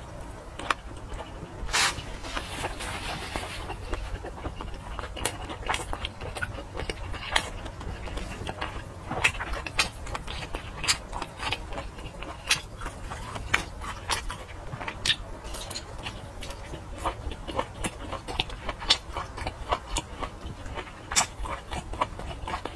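Close-miked eating of sausage: many short, wet mouth clicks and smacks of chewing at an irregular pace, with a brief noisy rustle about two seconds in.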